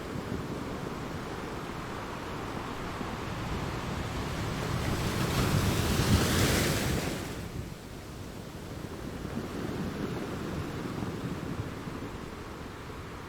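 Ocean waves on a shore: a wave builds and breaks about six seconds in, its crash and hiss the loudest part, then washes back into a steady lower surf.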